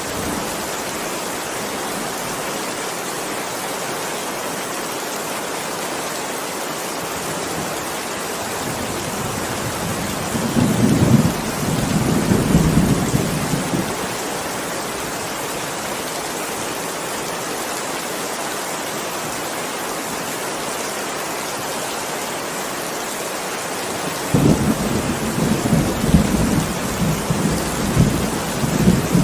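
Heavy rain falling steadily, with thunder rumbling low twice: once for a few seconds about ten seconds in, and again through the last five seconds.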